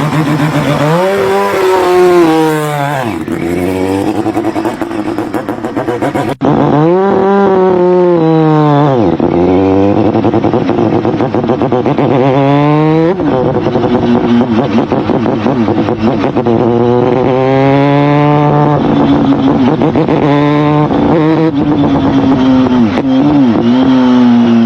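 A high-revving motorcycle engine accelerating hard, its pitch climbing and dropping again and again as it revs up through the gears. The sound cuts abruptly to another run a little over six seconds in.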